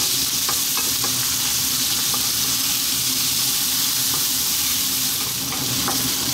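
Onions, garlic-ginger paste and chillies sizzling in hot oil in a wok on high heat, with a few faint scrapes and taps as a wooden spatula stirs them.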